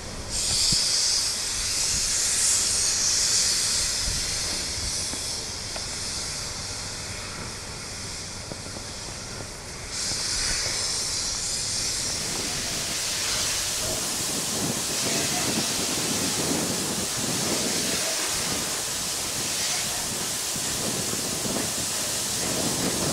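Victorian Railways R class steam locomotive releasing steam: a loud steady hiss that changes about ten seconds in to a broader, lower hiss.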